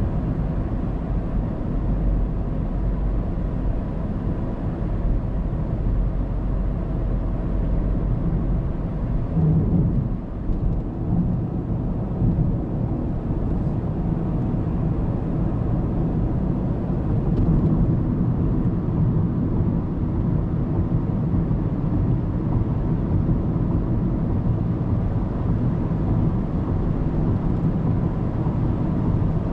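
Car driving on an expressway, heard from inside the cabin: steady low rumble of tyres and engine, with a brief swell about ten seconds in.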